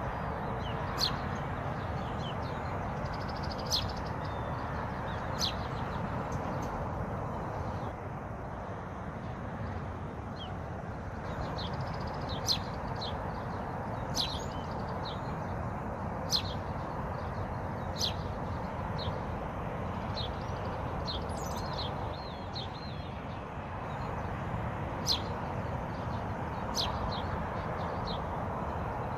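Wild birds giving short, sharp chirps every second or two over a steady rush of running water.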